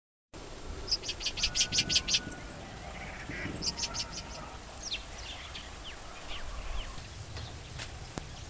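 Birds calling: a quick run of about eight sharp chattering notes, a shorter run of about five a moment later, then a few thin downward-sliding chirps.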